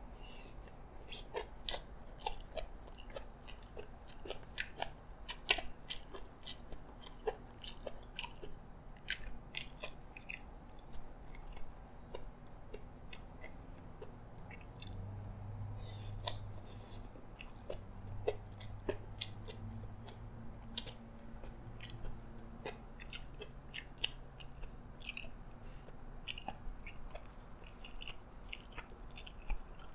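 Close-miked chewing and crunching of a yee sang raw-fish salad with shredded vegetables, jellyfish and crispy crackers: irregular crisp crunches and small wet clicks.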